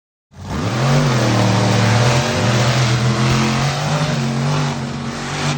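Monster truck engine revving loudly, its pitch dipping and climbing again, cutting in abruptly just after the start and easing off near the end.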